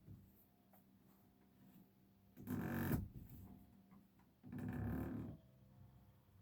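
Two short, loud pitched blasts from a model diesel locomotive on the layout, each under a second long and about two seconds apart.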